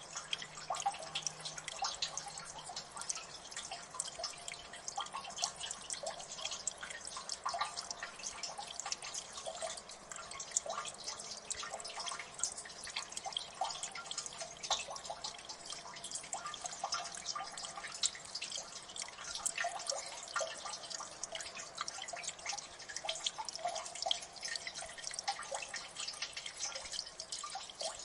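Water dripping steadily in a gully: many irregular drops, each a short plink, some higher and some lower in pitch, over a faint running-water hiss.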